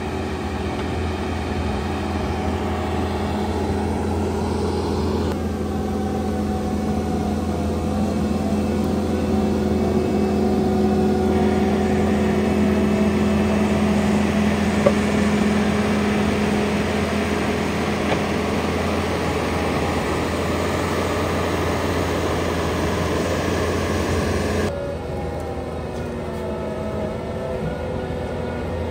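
Bobcat T86 compact track loader running steadily with its diesel engine and the Coneteks forestry rotor head grinding stumps and roots into the soil. The sound shifts abruptly a few times.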